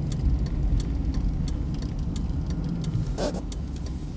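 Blizzard wind rumbling and buffeting the microphone, with scattered sharp ticks throughout and a brief louder rush about three seconds in.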